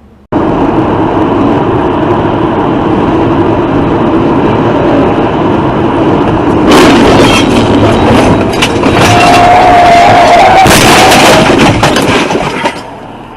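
Loud vehicle and road noise that cuts in suddenly, with loud bangs about seven and eleven seconds in and a wavering tone around the tenth second.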